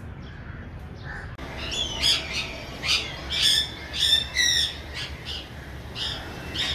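Birds squawking: a quick series of harsh, repeated calls that starts about a second and a half in and is loudest in the middle, over a low steady background hum.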